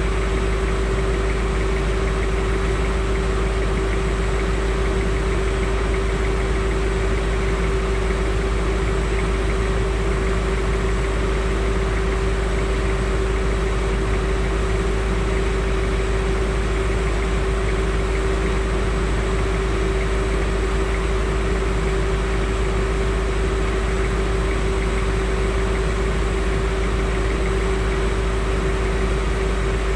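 Land Rover Discovery 2 engine idling steadily while the truck stands still, heard close up from under the front bumper: a low rumble with a constant hum over it.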